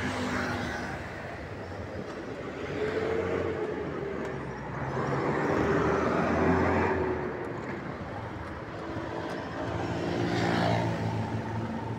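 Bajaj Platino 110 motorcycle's single-cylinder four-stroke engine running while riding on city streets, its pitch rising and falling a few times with the throttle.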